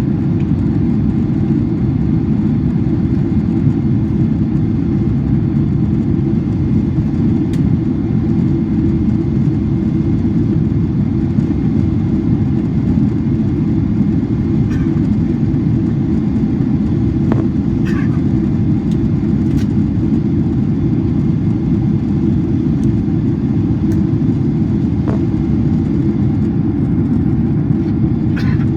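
Steady low cabin rumble of a Boeing 767-400ER in flight: engine and airflow noise, with a few faint clicks in the cabin.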